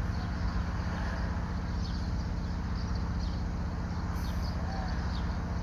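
A steady low mechanical hum, like an idling engine, with short high chirps of small birds scattered through it.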